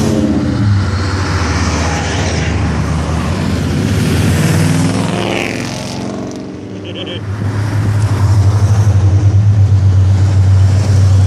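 Car engines going by close at hand, one passing about halfway through. From about seven seconds in, a loud, steady low exhaust note pulses rapidly, as a car runs slowly past.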